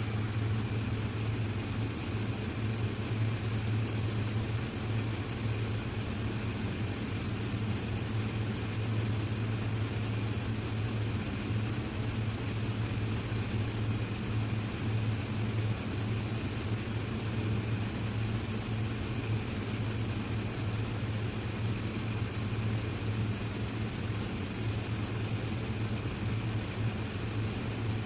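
Steady low mechanical hum of running machinery, unchanging in pitch and level.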